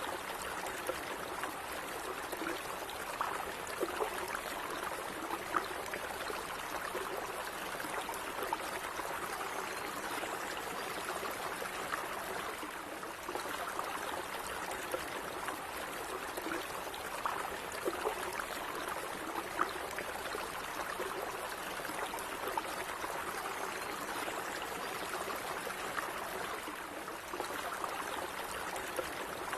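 A gently running stream trickling and gurgling steadily, with small splashes throughout.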